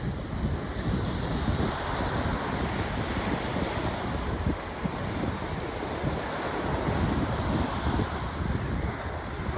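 Sea waves breaking and washing on a beach, with wind buffeting the microphone.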